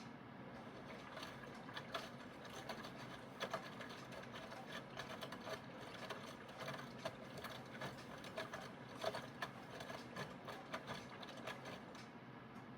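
Aidoo 1 kg mini washing machine's direct-drive motor running a wash stroke, with steady hum and irregular clicking and rattling. It starts right at the beginning and stops shortly before the end.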